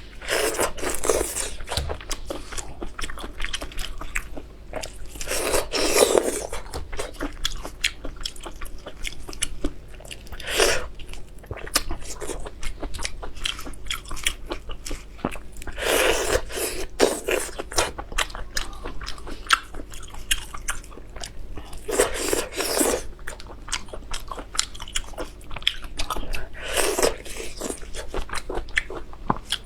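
Close-miked eating: biting and chewing with crunching, crackling mouth sounds, with a louder, noisier swell about every five seconds.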